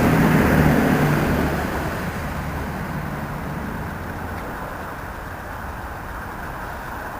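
A train running past on the line, its low rumble and hum loud at first, then fading away over the first two seconds into a quieter steady noise.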